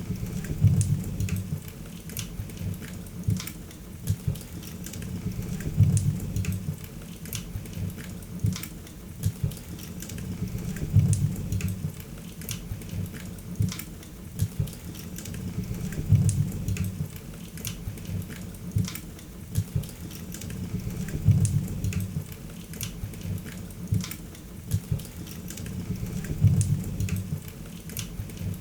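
Wood fire crackling in a fireplace, with dense sharp pops and snaps over a low rumble of flame that swells about every five seconds.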